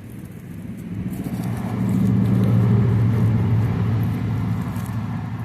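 A car passing by: a low engine and road rumble that swells to a peak about two and a half seconds in, then fades away.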